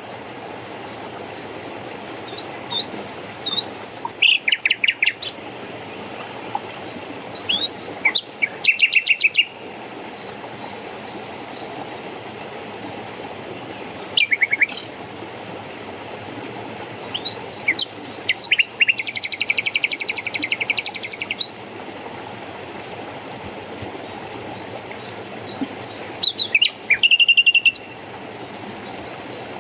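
Songbirds singing in repeated short bursts of rapid chirps and trills, the longest trill lasting about three seconds near the middle, over a steady rush of running water.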